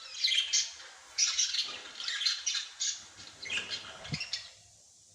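Small birds calling in a quick, busy run of short, high calls, which stops about four and a half seconds in.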